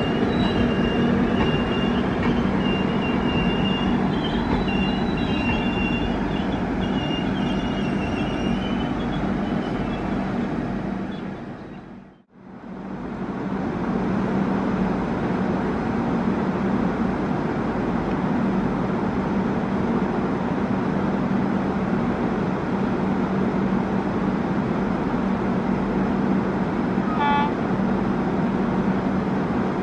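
A passenger train's coaches rolling slowly on the loop line, their wheels squealing in short high stretches, fading out about twelve seconds in. Then the steady drone of twin WDP4B diesel locomotives approaching, with a short horn toot near the end.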